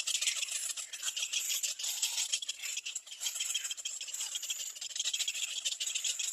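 Little black cormorant nestlings giving rapid, raspy begging calls, a high, scratchy chatter that rises and falls in loudness.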